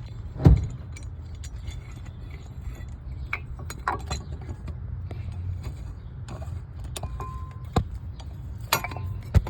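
Metal clicks and clinks of a C-clamp being screwed shut against an old brake pad, pushing a brake caliper's piston back into its bore. A sharp knock comes about half a second in and more clicks near the end, over a steady low hum.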